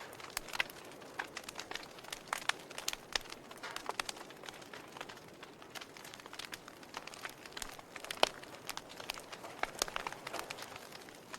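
Wood campfire crackling, with irregular sharp pops and snaps over a faint steady hiss; the loudest pop comes about eight seconds in.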